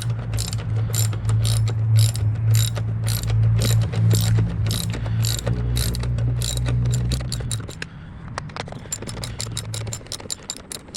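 Socket ratchet wrench clicking as it backs out a motorcycle seat bolt, a steady run of pawl clicks that come faster near the end as the bolt comes loose. A steady low hum sits underneath and fades out about three-quarters of the way through.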